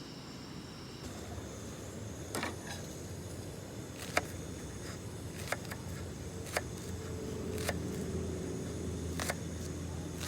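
Six sharp, light clicks or knocks at irregular intervals, about one every second or two, over a low steady rumble.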